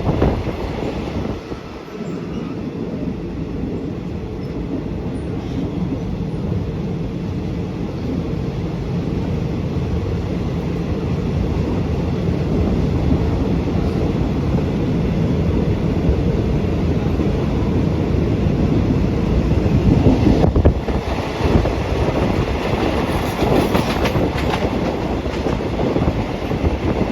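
Passenger train running along the rails, a steady rumble of wheels and carriages with some clatter. It grows louder and more clattery for the last several seconds.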